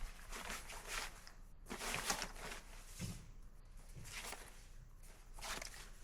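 Unhurried footsteps outdoors, with a scuff on the ground about once a second and a duller low thump about halfway through.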